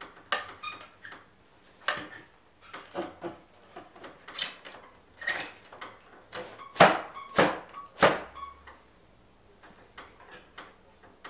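Irregular knocks as a new laminated pine bottom rail is driven into the joint of an old wooden window sash, with the three loudest strikes coming close together in the second half.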